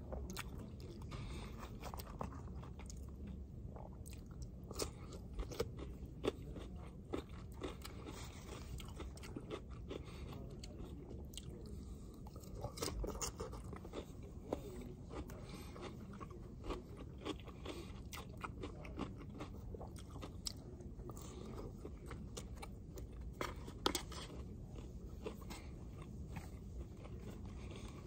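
Close-up eating sounds: a person chewing and biting grilled pork chop and rice, with many short clicks and scrapes from plastic utensils on a takeout plate, over a steady low hum.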